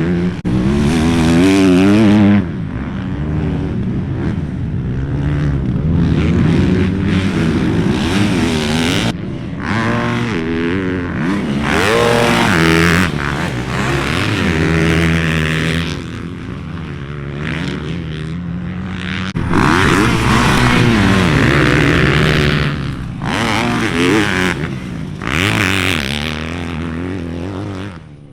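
Dirt bike engine revving hard, pitch climbing and dropping again and again as the rider opens and backs off the throttle, with a sudden drop in level right at the end.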